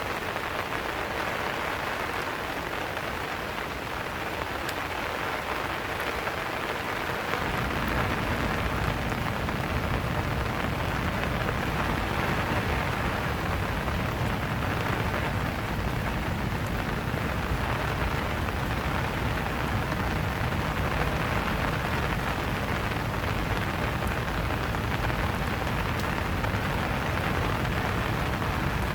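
Steady rain falling, an even hiss of drops. About seven seconds in, a low rumble joins and the rain grows a little louder.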